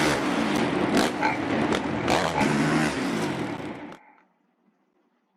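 Several dirt bike engines revving up and down over a noisy race-track wash, with a few sharp clacks. The sound cuts off abruptly about four seconds in, leaving near silence.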